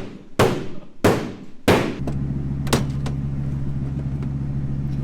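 Four sharp slams in quick succession, like vehicle doors shutting. From about two seconds in, a vehicle's engine runs with a steady low drone.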